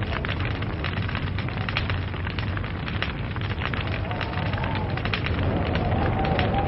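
Log fire crackling, with many small sharp pops and snaps over a steady low rumble of burning.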